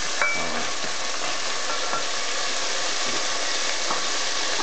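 Pork, ginger and garlic sizzling steadily as they fry in a pot, with a silicone spoon stirring. A sharp clink about a quarter second in, and a few lighter knocks later.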